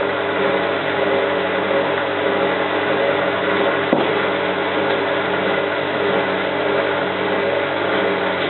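Hotpoint 9534A washing machine running steadily, a constant hum of several tones, with one sharp click about four seconds in.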